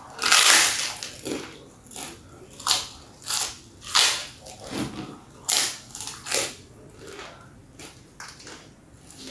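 A person bites into crisp food close to the microphone with a loud crunch about half a second in. Then comes open-mouthed crunchy chewing, a crunch roughly every two-thirds of a second, growing softer over the last few seconds.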